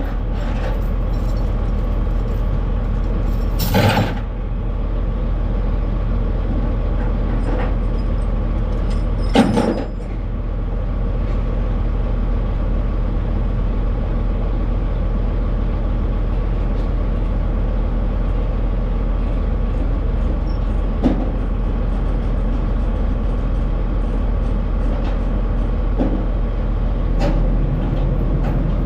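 Semi truck's diesel engine running with a steady low drone, with a few sharp clunks from the truck about 4, 9 and 21 seconds in.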